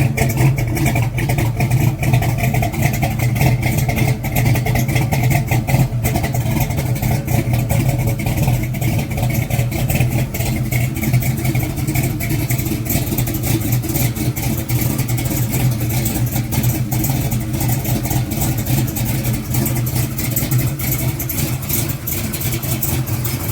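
Big-block V8 running steadily with a choppy, bumping beat from its exhaust.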